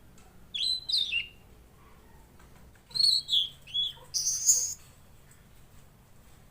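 Tledekan laut songbird singing two short bursts of quick, high, varied chirping notes: one about half a second in, and a longer run of several notes starting about three seconds in.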